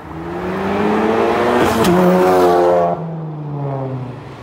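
Tuned car accelerating hard, its engine note rising to a sharp gear change about two seconds in. About a second later the throttle is lifted and the note falls away.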